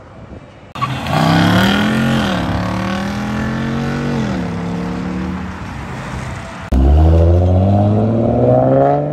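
A Jeep Wrangler 392's 6.4-litre V8 accelerating away, cutting in suddenly under a second in: its revs rise, drop back and then hold steady. About seven seconds in it gives way abruptly to a Ford Mustang's engine accelerating hard, revs climbing steadily.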